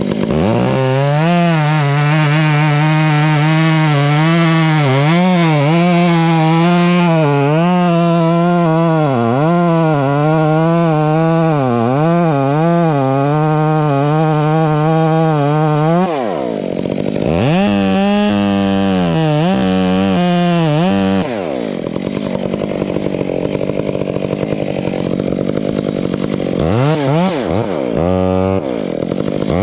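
Chainsaw running hard and cutting, its pitch sagging and recovering over and over as the chain bites. About halfway through it drops off briefly and revs back up. It then runs slower and quieter for several seconds before revving up again near the end.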